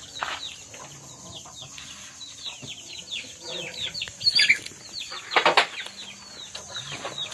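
Birds calling: a run of many short, high, falling chirps, with two louder calls about four and five and a half seconds in.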